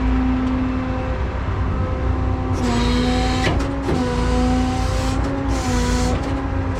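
Truck engine running under the driver's control while reversing up to a trailer, a steady hum whose pitch shifts slightly a few times as the engine speed changes, with a hiss joining from about two and a half seconds in.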